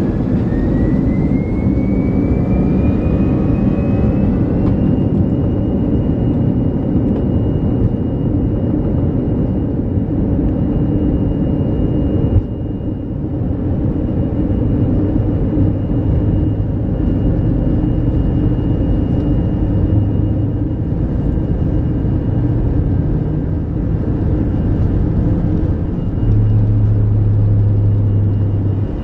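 Airbus A321's jet engines spooling up, heard inside the cabin: a whine rises in pitch over the first few seconds and then holds steady over a loud, heavy rumble, as on a takeoff roll. A deeper hum joins near the end.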